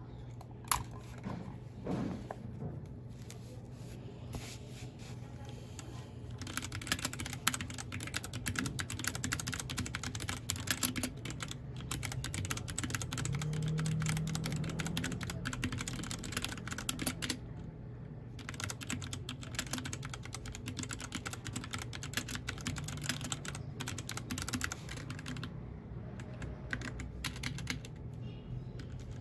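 Typing on a mechanical keyboard: streams of rapid key clicks, sparse for the first few seconds and then dense, broken by a few short pauses. A steady low hum runs underneath.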